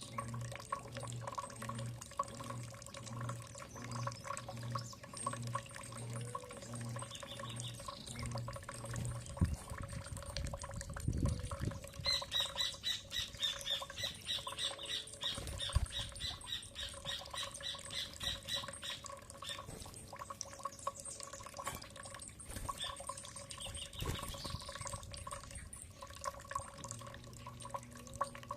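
Birds calling at a feeding spot: short high calls, then a fast run of chattering notes from about twelve seconds in to about nineteen seconds. Many small clicks and drips sound throughout over a steady hum, with a low pulsing sound about twice a second for the first nine seconds.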